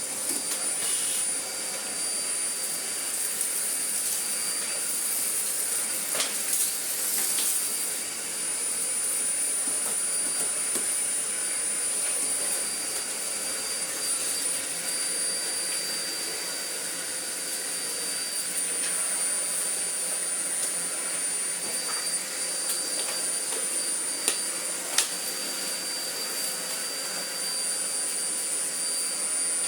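Miele Blizzard CX1 bagless vacuum cleaner running steadily while being used to vacuum: a constant rush of air with a steady high whine over it. A few sharp clicks, two close together about 24 seconds in.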